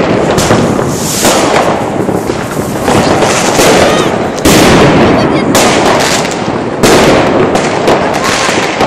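Fireworks display going off: a dense run of sharp bangs and crackling, one after another and overlapping, with big blasts about four and a half and seven seconds in.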